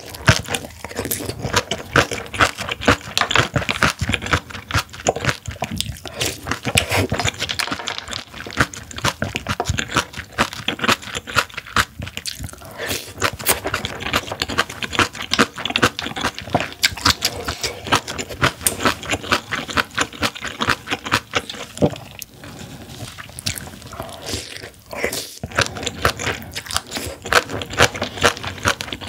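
Close-miked chewing of crunchy spicy kimchi: rapid wet crunches, many a second, with a few brief pauses.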